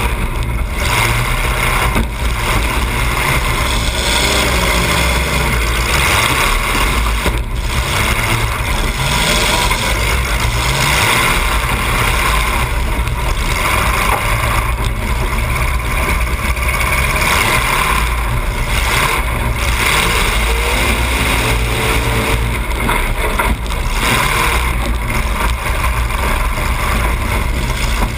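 Demolition derby car's engine heard from inside the car, running loud through open exhaust stacks that come straight up through the hood, its pitch rising and falling a few times as the driver gets on and off the throttle.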